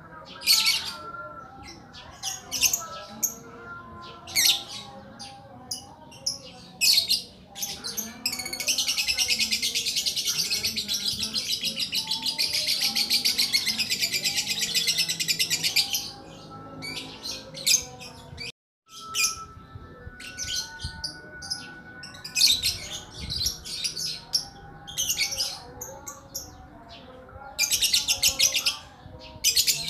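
A bird the uploader calls 'lakbet' calling repeatedly with short, sharp, high chirps, breaking about eight seconds in into a long, very rapid trill that lasts around seven seconds, and into another short trill near the end.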